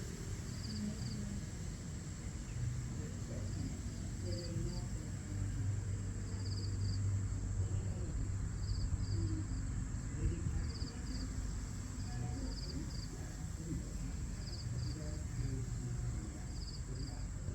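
Outdoor dawn ambience: high, short chirps in groups of two or three, repeating every second or two, typical of crickets, over a steady high hum and a low rumble.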